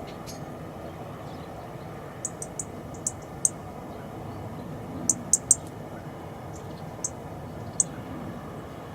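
Small garden birds giving short, high chirps, singly and in quick runs of two or three, over a steady low background noise.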